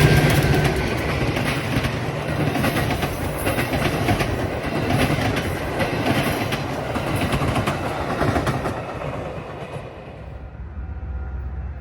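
A train passing close by, its railroad cars' wheels clacking over the rail joints, dying away about nine to ten seconds in.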